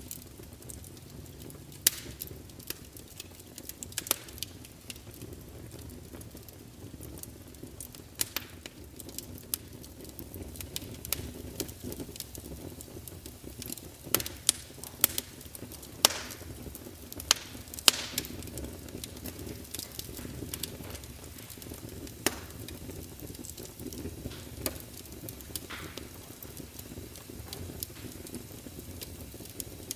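Burning wood fire crackling: a steady low rumble of flames with sharp, irregular pops and snaps, several of the loudest bunched around the middle.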